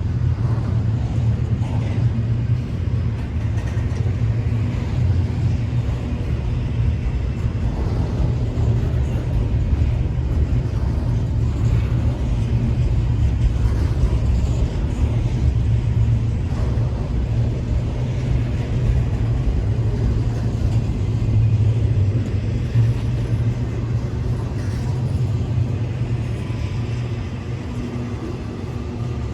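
Intermodal freight train rolling by, a steady low rumble of wheels on rail that eases slightly near the end.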